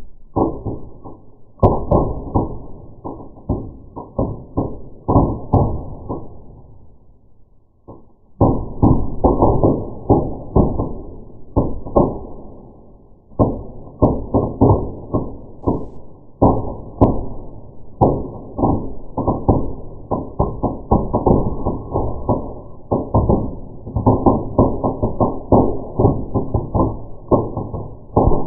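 Birch bark burning in a fireplace, crackling and popping in dense runs of sharp knocks, slowed down so each pop sounds deep and dull. The popping eases off briefly about six seconds in, then picks up again.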